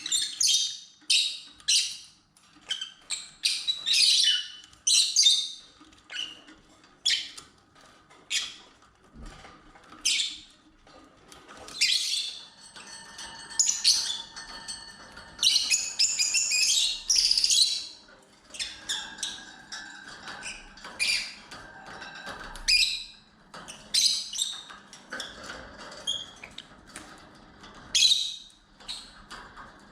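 Lovebirds calling: a string of short, shrill chirps and squawks, with a denser run of chattering calls about halfway through.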